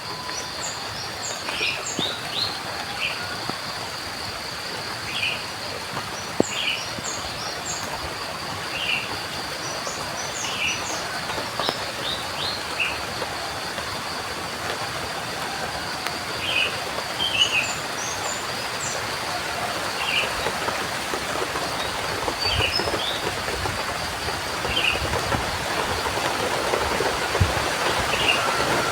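Steady rain falling, with wild birds calling over it: a short call repeated roughly once every second or two, and bursts of higher chirps now and then. A steady high whine runs underneath.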